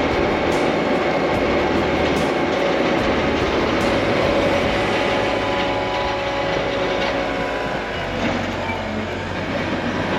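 Compact wheel loader with a snow pusher working: its diesel engine runs steadily under load, with rattling from the machine.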